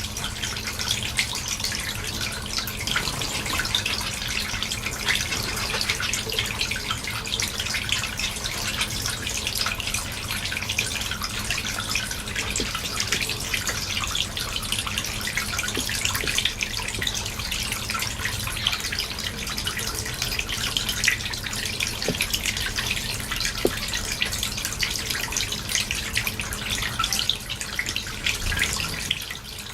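Small cage finches chattering and pecking: a dense, continuous run of short, high chirps and clicks, over a steady low hum.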